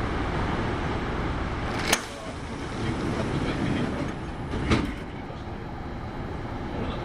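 Cabin rumble inside a Kintetsu 8810 series train at a station as the doors close, with two sharp knocks, about two seconds in and again near five seconds.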